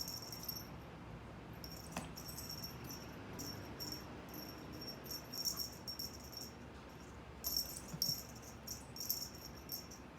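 A kitten making repeated very high-pitched squeaky sounds in short bursts, on and off, loudest about halfway through and again near the end.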